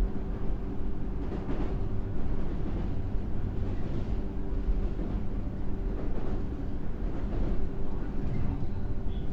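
Running noise inside a JR 103-series EMU motor car: a steady hum from its MT55 traction motors and gearing over continuous wheel-on-rail rumble, with a few faint clicks from the track.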